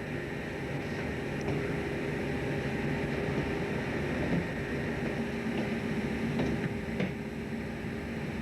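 Steady hum of a fishing boat's engine and machinery heard on board, with a few faint ticks.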